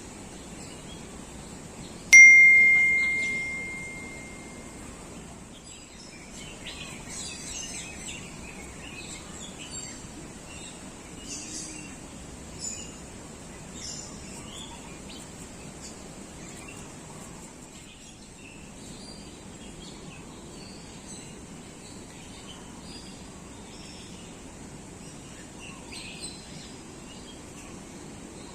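Birds chirping and calling in short, scattered high notes. About two seconds in, one loud ding rings out and fades over a couple of seconds; it is the loudest sound.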